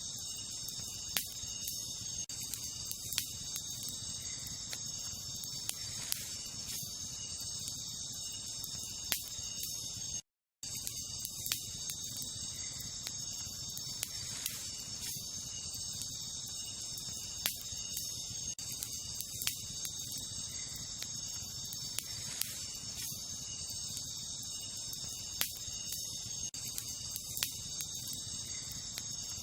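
Wood campfire crackling, with scattered sharp pops, over a steady high-pitched insect chorus. The sound cuts out completely for a moment about ten seconds in.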